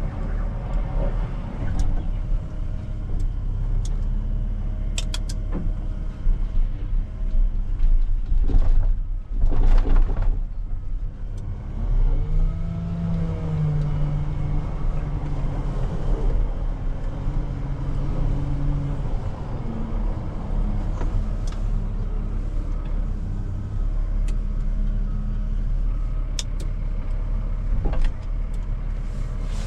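Heavy machine's engine running with a deep rumble, its pitch rising and falling as it revs under work. There are loud surges of noise about nine and ten seconds in, and a few sharp clicks.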